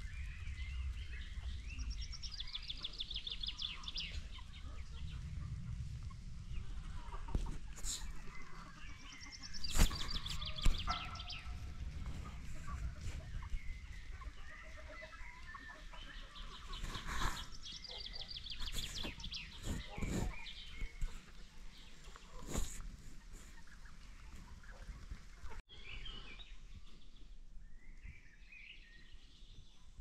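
Birds calling, with rapid high trills in three bursts several seconds apart and a few sharp knocks in between.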